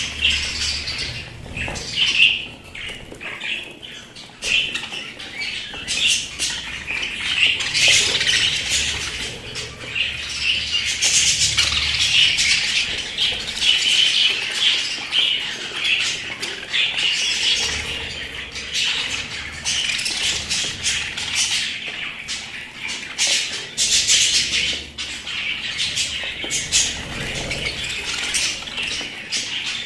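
Pet budgerigars chattering and squawking together, a dense unbroken stream of warbles, chirps and sharp clicks.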